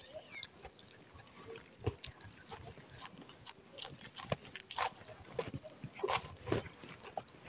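A person chewing and eating noodles and vegetables, with irregular wet mouth smacks and clicks.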